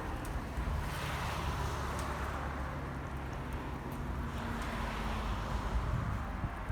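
Wind buffeting the microphone, with a faint steady engine drone underneath.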